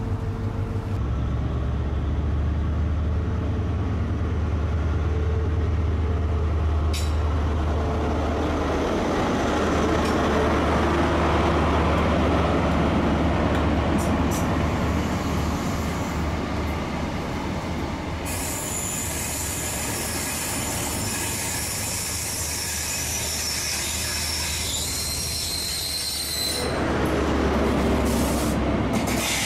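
High Speed Train passing on a curve: the Class 43 diesel power car's engine drones low and steady, and from a little past the middle the wheels squeal high on the curved track for several seconds. Near the end the squeal stops and the engine drone of the rear power car swells up.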